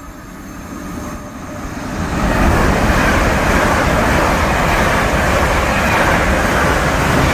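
Train approaching and passing close by at speed: the noise builds over the first two seconds into a loud, steady rush and rumble.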